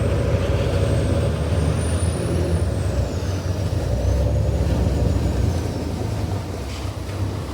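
A passenger ferry's engines droning steadily under way, with wind noise on the microphone and a thin high whine that slowly rises and falls in pitch.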